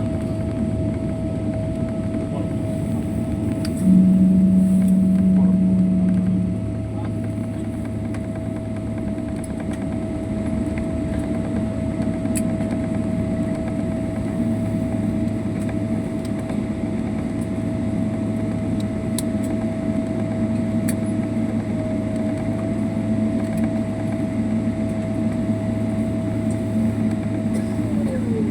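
Cabin noise of a Boeing 777 airliner on the ground after landing: a steady rumble with a steady whine that falls in pitch near the end. A loud low hum lasts about two and a half seconds a few seconds in.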